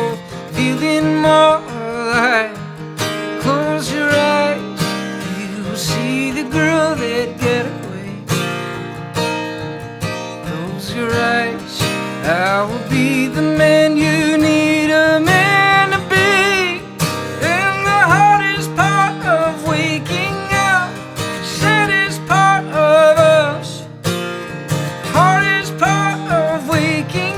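Live acoustic folk music: a strummed acoustic guitar with a wavering melody line carried over it.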